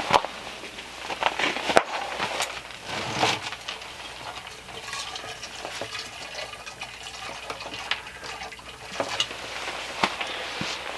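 Hot water poured from a tea kettle into a jug, a steady pour through the middle, with knocks and clinks of the kettle and jug being handled before and after.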